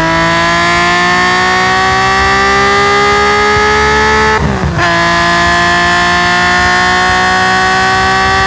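Tuned Nissan S20 twin-cam straight-six in a Hakosuka Skyline GT-R race car under full acceleration, its exhaust note rising steadily in pitch. About four and a half seconds in, a quick upshift on the Quaife sequential gearbox cuts the note briefly and the revs drop, then climb again.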